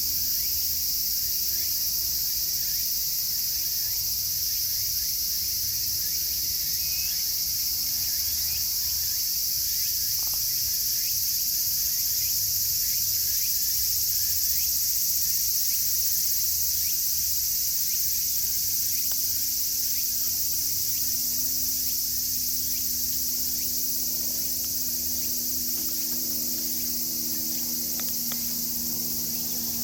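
Cicadas chorusing in a dense, steady, high-pitched drone, with faint scattered crackles from a campfire.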